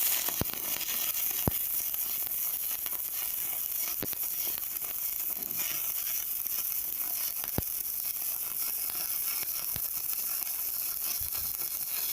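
Electric arc welding powered by a LiFePO4 battery: the arc burns with a steady crackling sizzle, broken by a few sharp pops.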